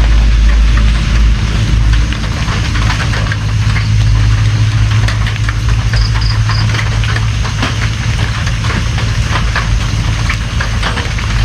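Rain falling steadily, with many separate drops ticking on a surface over a constant low rumble.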